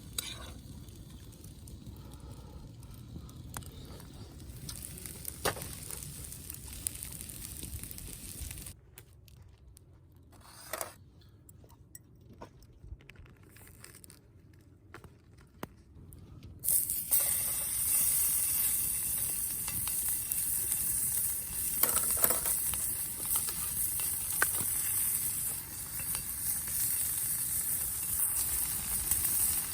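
Cooking in a pan: scattered clinks and scrapes of a metal utensil, a quieter stretch near the middle, then from a little past halfway a louder steady sizzle of food frying.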